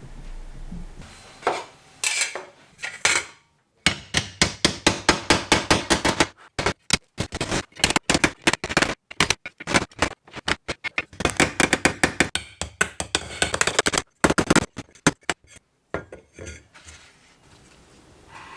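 Metal tools and parts clicking and tapping against one another in quick runs of about seven strikes a second, with short pauses between the runs.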